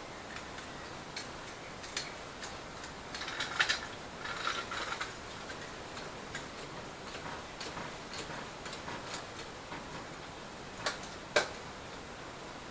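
Scattered light clicks and taps over a steady hiss, with a denser run of clicks about three and a half seconds in and two sharp clicks near the end.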